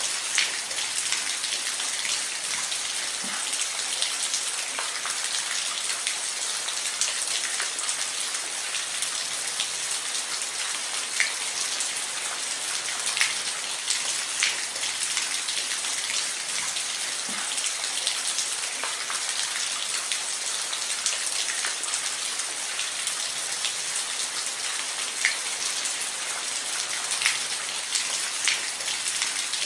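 Steady rain falling on a roof, a dense hiss with scattered sharper drop hits.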